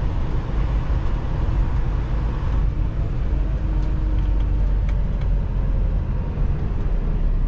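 Freightliner Cascadia semi truck's diesel engine running with a steady low rumble, heard from inside the cab as the truck is driven.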